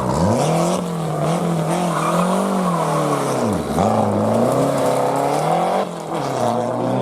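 Historic rally car engine at high revs under hard driving; its pitch drops sharply and climbs again near the start and about halfway through, as the driver lifts off and changes gear, with a brief break near the end.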